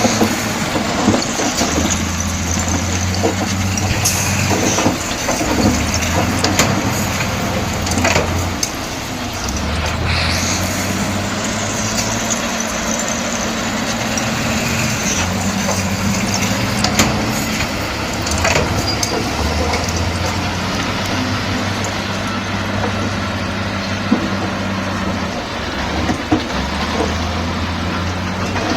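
Komatsu D68E bulldozer's diesel engine running under load, its note rising and falling every few seconds as it works, with a constant clatter and scattered sharp clanks.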